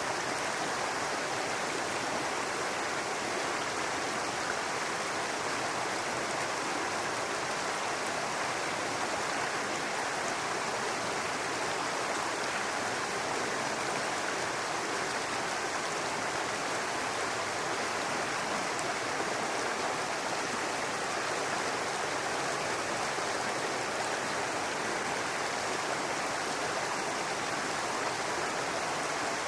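Babbling brook: water running steadily over rocks.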